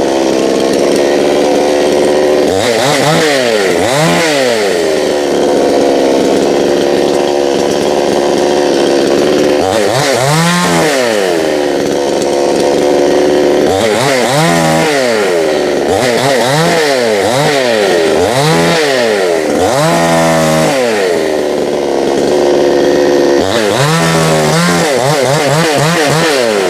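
Gas chainsaw's two-stroke engine running while cutting up a fallen tree limb. It is revved up and falls back again about ten times, with steadier stretches in between.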